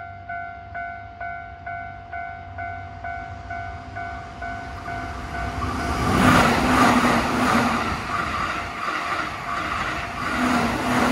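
Japanese railway level-crossing warning bell dinging about twice a second. About five seconds in, a Keihan Main Line electric train passes over the crossing, its wheels clattering in a rhythm over the rail joints, and it becomes the loudest sound.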